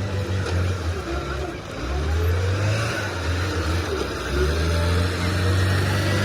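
A motor vehicle engine running with a steady low hum, its pitch rising and falling as it revs.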